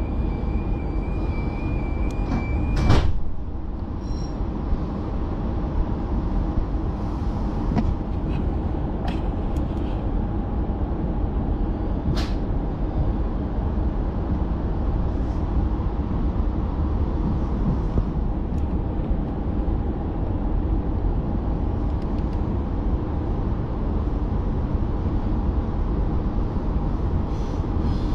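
Inside a commuter train: a high steady door warning tone sounds until the doors slide shut with a loud thud about three seconds in, then a steady low rumble as the train pulls out of the station.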